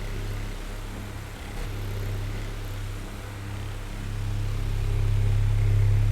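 Oscillating electric fan running: a steady low hum over a faint airy hiss, swelling louder over the last couple of seconds.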